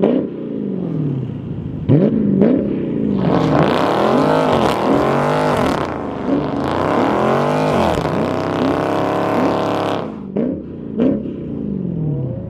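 Car engine revved hard again and again, its pitch swelling up and dropping back in quick repeated sweeps. It is loudest and harshest through the middle several seconds, then settles lower near the end.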